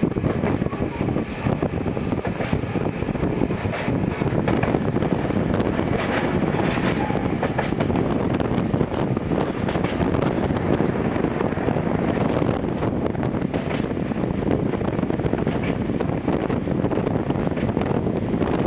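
Running noise inside a Gakunan Railway 7000 series electric railcar travelling between stations: a steady rumble of wheels on rails, with a few faint knocks along the way.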